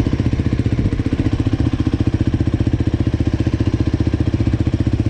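Motorcycle with a new G.P.R aftermarket exhaust idling steadily, an even, fast exhaust beat.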